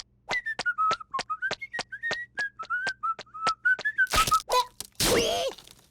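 A cartoon character whistling a short wavering tune over quick ticking clicks. Near the end come two louder noisy bursts with a squeaky gliding sound effect.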